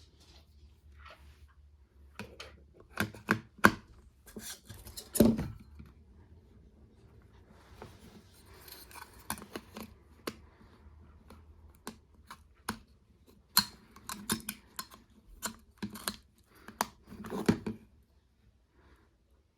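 Scattered sharp clicks, taps and scraping of small hard parts being handled while working on a Nokia Asha 302 mobile phone, with a louder knock about five seconds in.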